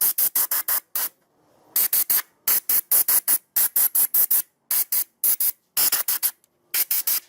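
A spray nozzle hissing in quick short bursts, about five a second, in runs of four to six with brief pauses between.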